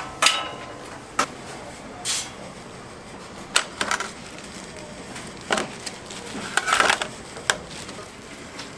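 Kitchen work clatter: scattered sharp knocks and clicks, with a quick run of them about seven seconds in, over a steady background.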